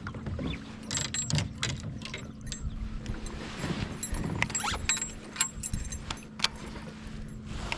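Gear being handled: small metal pieces clinking and rattling in an irregular run of sharp clicks and jingles, over a faint steady hum.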